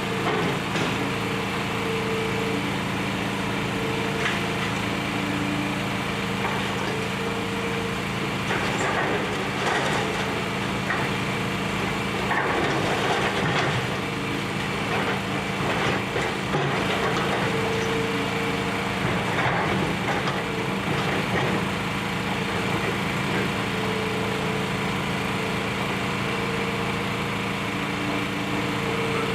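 Demolition excavator's diesel engine running steadily, its pitch wavering as it works, with crunching and clattering of building debris being broken apart, busiest in the middle stretch.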